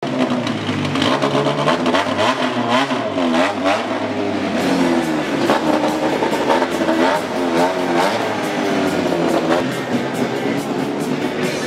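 Rally car engines running as the cars roll slowly past, revved up and down in short blips several times.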